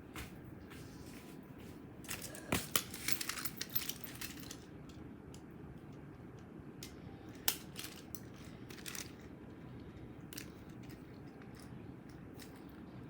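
Toy trains and track pieces being handled: a run of clicks and rattles for a couple of seconds, then a single sharp click and a few faint knocks.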